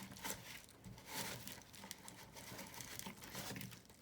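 Loose bird seed rustling and crackling in irregular bursts as a syrup-coated pine cone is rolled through it.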